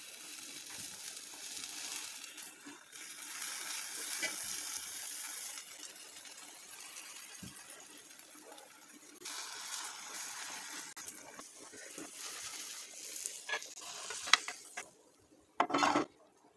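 Omelette sizzling in hot oil in a nonstick frying pan, with a silicone spatula scraping and tapping the pan now and then. The sizzle dies away near the end, followed by a brief knock.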